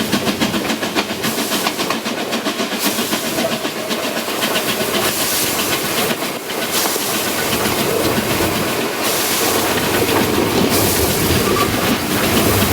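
Harz narrow-gauge Class 99 steam locomotive running: quick rhythmic chuffs at about four a second at first, giving way to a steadier hiss with rail clatter.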